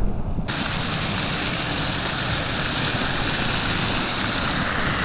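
Waterfall rushing: a steady, dense hiss of falling water that comes in abruptly about half a second in and holds at an even level.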